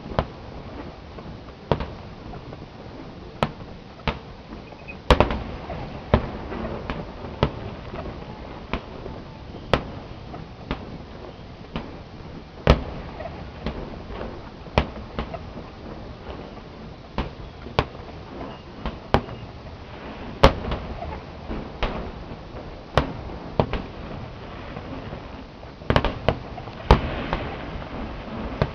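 Aerial firework shells bursting in a display: sharp bangs every second or two at irregular intervals, with a quick cluster of several bangs near the end, over a constant background rumble and crackle.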